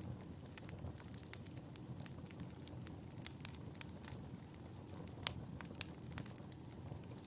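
Wood fire crackling in a fireplace: a soft, steady low rumble with irregular sharp pops and snaps, two of them louder a little past the five-second mark.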